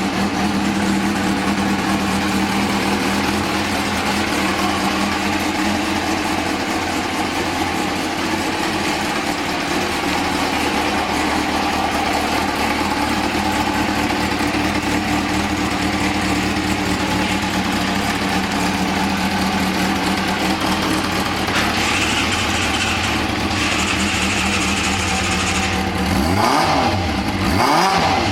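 Kawasaki ZRX400's inline-four engine idling steadily through a Yoshimura titanium Cyclone muffler, then revved in short blips near the end.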